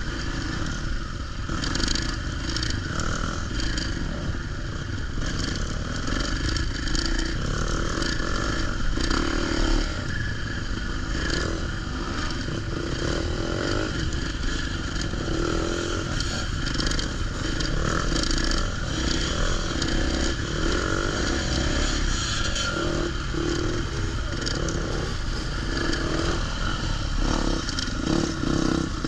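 Motocross dirt bike's engine running continuously as the bike is ridden, with the throttle varying a little.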